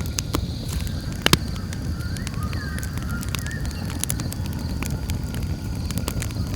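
Campfire crackling: many sharp wood pops and snaps over a steady low rumble of the flames, with one louder pop about a second in. A steady high, thin tone of night insects runs underneath.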